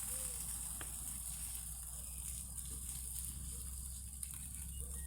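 Campfire of stacked logs, just doused with oil, burning with a few sharp crackles and pops over a steady high hiss.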